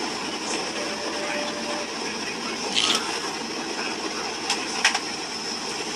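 Airliner cabin noise during the approach to landing: a steady rush of engine and airflow with a faint high whine, broken by a few short clicks or rattles about three, four and a half and five seconds in.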